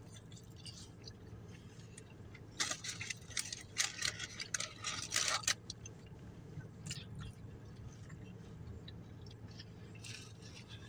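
Crinkling and rustling of a fast-food wrapper being handled close to the microphone for about three seconds, starting a couple of seconds in, over a low steady hum.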